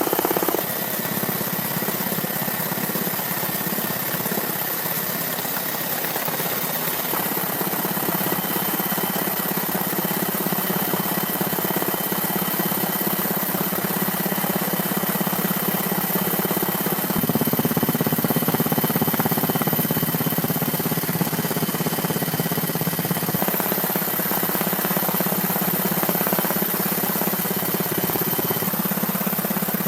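A steady mechanical engine drone with a low hum and a high hiss, its pitch and character changing abruptly a few times.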